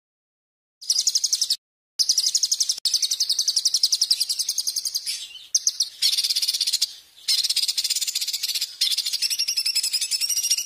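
A songbird singing fast, high-pitched trills in phrases of one to three seconds with short breaks between them, starting about a second in; this is a masteran recording made to tutor caged songbirds.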